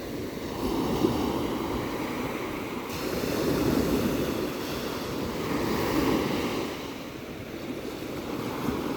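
Ocean waves breaking and washing ashore, the surf swelling and easing in surges about every two to three seconds, with some wind on the microphone.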